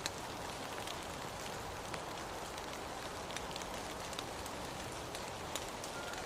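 Steady rain, an even hiss with scattered sharp drops striking close by.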